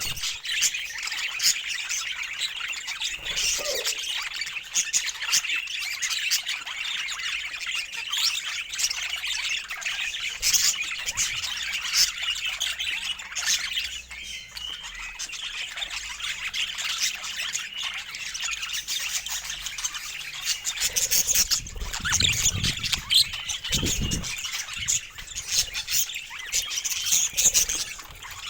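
A flock of budgerigars chattering, a continuous jumble of warbles, chirps and squawks, with a few low thumps a little after twenty seconds in.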